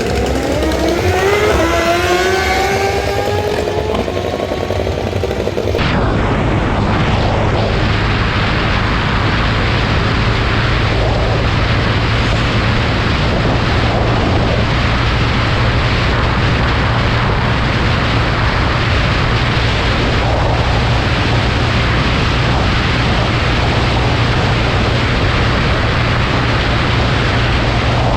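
A motorcycle engine revs up, its pitch climbing steadily over the first few seconds. About six seconds in the sound cuts abruptly to a loud, steady rush of noise over a constant low engine drone.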